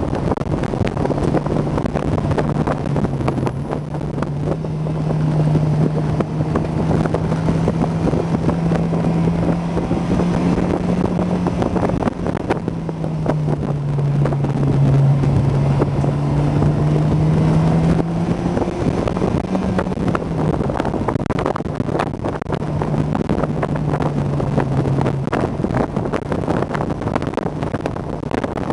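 Honda S2000's four-cylinder engine pulling at steady revs on an open-top drive, its note rising and falling several times with the throttle, over heavy wind buffeting on the microphone.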